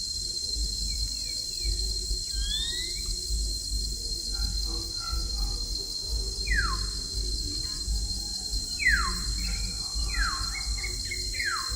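Bird calls: a few sharp, quickly falling whistles, coming closer together in the second half, over a steady high buzz of insects.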